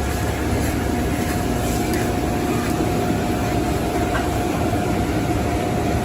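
Car wash machinery running steadily: a continuous mechanical rumble with a constant mid-pitched whine.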